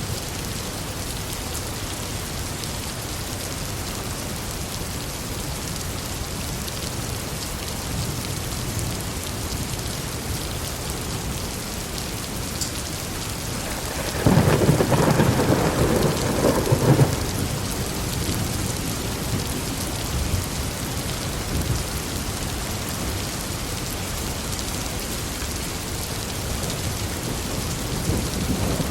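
Steady heavy rain, with a clap of thunder about halfway through that rumbles for about three seconds, and a fainter rumble near the end.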